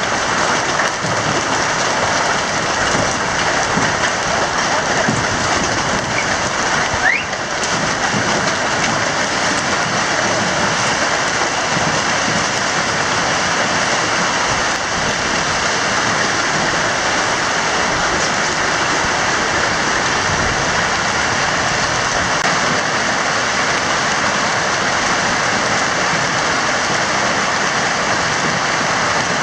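Hailstorm: hailstones and rain falling hard on the surroundings in a dense, steady patter. A short rising whistle cuts through about seven seconds in.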